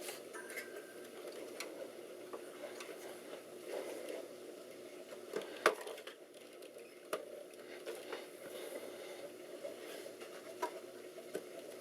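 Scattered light clicks and taps from handling and pushing RAM modules into a desktop computer's memory slots, one sharper click a little before halfway, over a steady hum.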